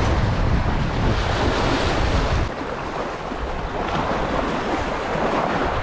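Wind buffeting the microphone over waves washing against shoreline rocks. The low wind rumble drops off sharply about two and a half seconds in, leaving the wash of the water.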